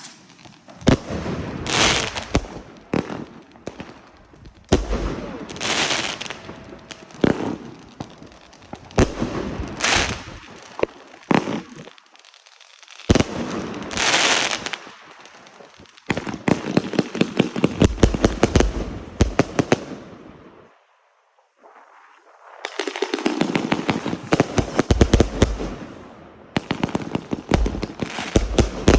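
Fireworks going off: sharp bangs and crackling, coming in dense rapid volleys, mixed with several bursts of hissing. There is a brief gap about two-thirds of the way through.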